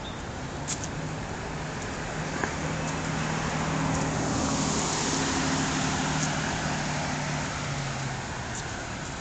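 A road vehicle passing by: its engine hum and tyre noise swell to a peak about halfway through, then fade away.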